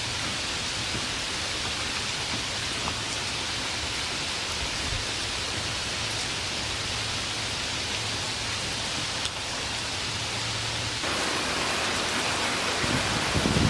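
Steady rain falling, an even hiss. About three-quarters of the way through it turns slightly louder and fuller, and near the end a low rumble rises.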